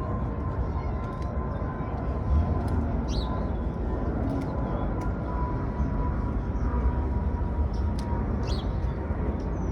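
Steady low rumble of outdoor background noise, with a faint steady high tone and a few short, high, falling chirps about three seconds apart.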